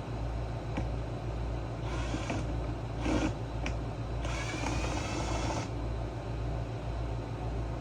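Workshop tool and handling noise while a generator's plastic case is taken apart: short scraping and rattling bursts, then a whir of about a second and a half a little past four seconds in, over a steady low hum.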